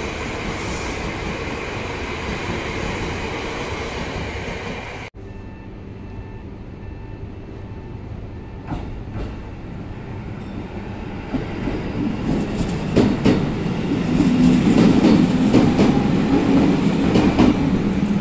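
Yamagata Shinkansen train running past, a steady loud rush of wheel and air noise that cuts off abruptly about five seconds in. Then a JR local electric train moves off from a station platform, its motor hum and clicking wheels growing steadily louder toward the end.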